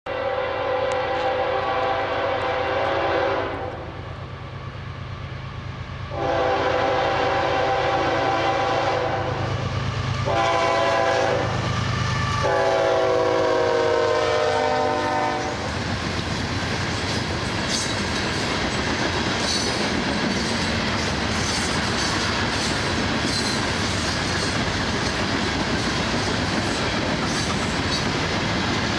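CSX diesel freight locomotive sounding its air horn as it approaches and passes: long, long, short, long, the pattern sounded for a grade crossing, over the rumble of the engine. From about halfway in, the horn stops and the rolling noise of the loaded hopper cars goes by with a steady clickety-clack of wheels over rail joints.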